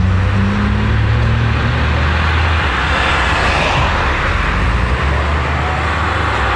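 Ferrari 599 GTB Fiorano's V12 running steadily at low revs, with a hiss of street traffic around it.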